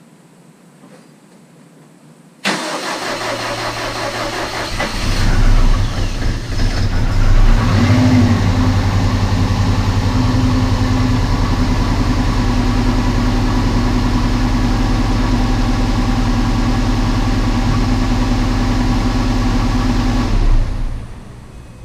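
Rebuilt Subaru EJ257 flat-four engine cranking over about two seconds in, catching and revving briefly, then running steadily at idle before being shut off near the end. It is the engine's first start after a long-block rebuild, and it runs really rough at idle.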